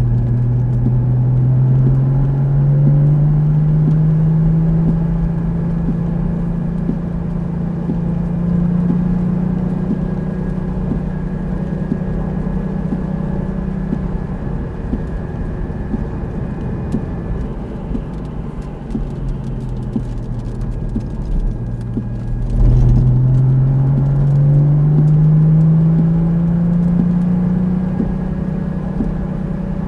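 Porsche sports car's engine heard from inside the cabin, pulling up through the revs under acceleration for a long stretch, then easing off as the car slows. Near the end there is a sudden thump and the engine pulls and climbs again.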